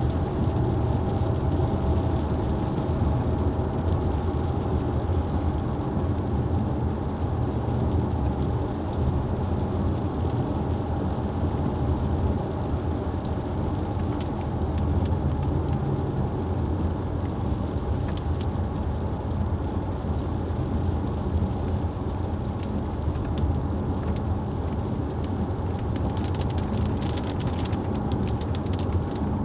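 Steady road and engine noise of a moving vehicle: a low, even rumble, with faint ticking near the end.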